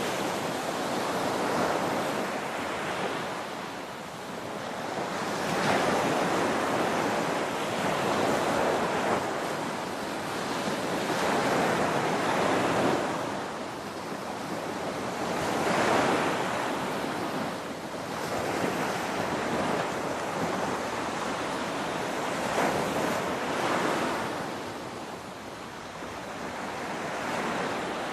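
Ocean waves breaking on a shore, a steady rushing hiss that swells and ebbs as each wave comes in, about every four to six seconds.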